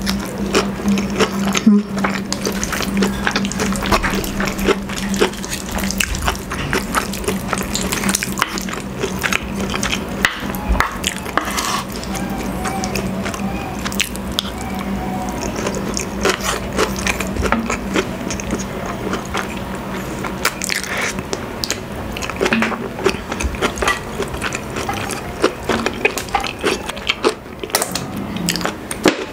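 Close-miked wet chewing and lip smacking of a person eating saucy braised pork hock (pata tim) with rice, as a dense run of small clicks and squelches.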